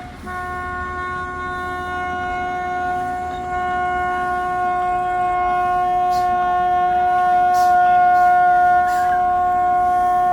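A vehicle horn blaring in one steady, unbroken tone, slowly growing louder.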